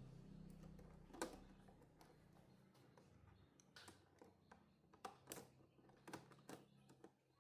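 Faint scattered clicks and taps, with one sharper click about a second in, over a low hum that fades away during the first second.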